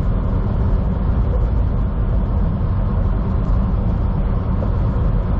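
Steady low drone of a semi truck's engine and road noise heard from inside the cab while driving along the highway.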